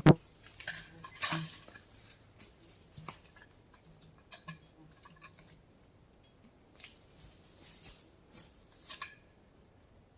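Metal chain and rigging clinking and knocking as a log is hooked up to a log arch, with a loud sharp knock at the very start and another about a second later, then scattered lighter clinks.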